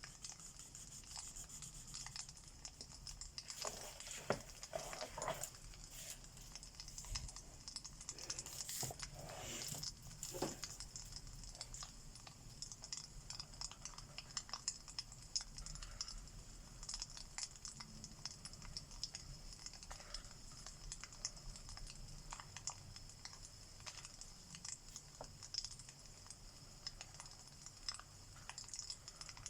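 Crackling log fire: many small pops and snaps over a steady hiss, with a few louder knocks and scrapes in the first third.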